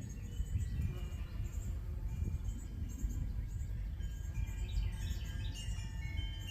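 Outdoor garden ambience: birds chirping, with ringing chime tones over a low rumble of wind on the microphone.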